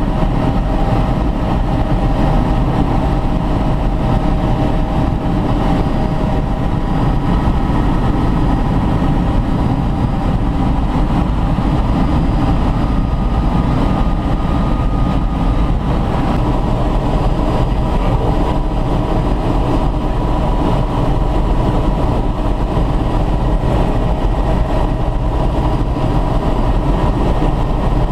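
Helicopter in flight heard from inside the cabin: a loud, steady drone with a few faint, steady whining tones above it.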